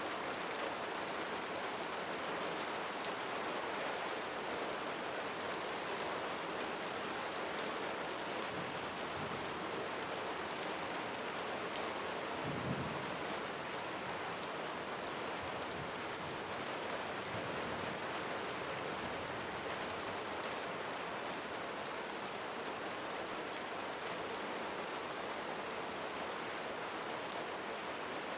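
Steady rain falling on leaves, a dense hiss with many individual drops ticking. A brief low rumble comes about twelve seconds in.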